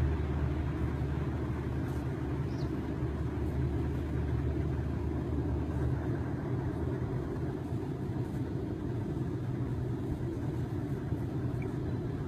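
Steady low rumble of a road vehicle's engine running, with no change in pitch.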